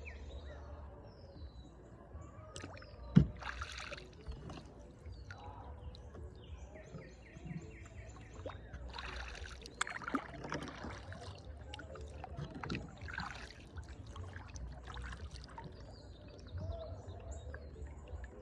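Kayak paddle dipping and splashing in river water in several separate strokes, with a single sharp knock about three seconds in.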